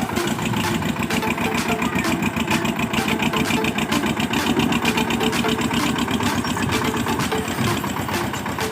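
Tractor engine running steadily at idle, with a rapid, even firing beat.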